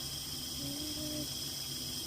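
Insects droning steadily in the forest as two unbroken high tones, over a low hum, with a faint distant voice a little past halfway.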